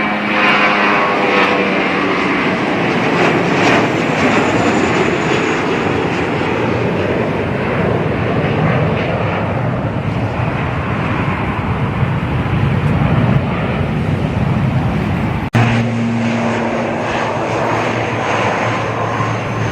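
Airliner engines heard outdoors: a loud, steady rushing noise with whining tones over it. About three quarters of the way through it breaks off abruptly, as at an edit, and a similar engine sound with a steady low hum carries on.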